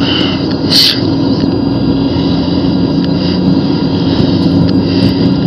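Single turbojet engine of a Snowbirds CT-114 Tutor running steadily, heard from inside the cockpit as an even drone with a steady hum. A short hiss sounds about a second in.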